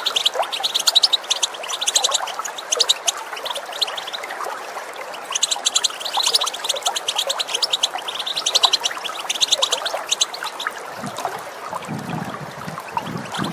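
European goldfinch twittering: fast chattering runs of short, high notes in two long phrases with a short pause between, over the steady rush of running water. A low rumble comes in near the end.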